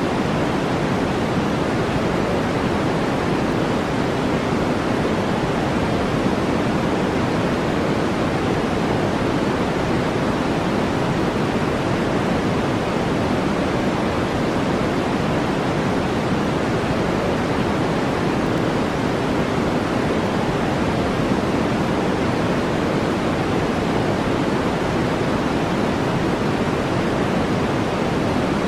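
Steady brown noise: an even, deep hiss with no rises or breaks.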